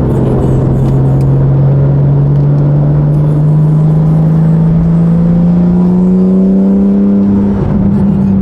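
Car engine accelerating steadily, its note rising slowly in pitch for several seconds, with a short break and change in the note near the end, like a gear change.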